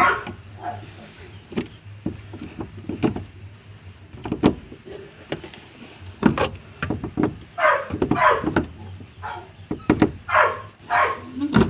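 Irregular knocks and clicks of hand tools and metal parts being handled during car repair work, over a low steady hum.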